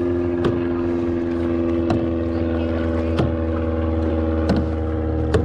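A motorboat engine running steadily at an even pitch, with a sharp tap about every second and a bit, five in all.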